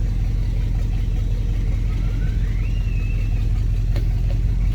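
Rebuilt engine of a 1971 Chevrolet C10 pickup idling steadily.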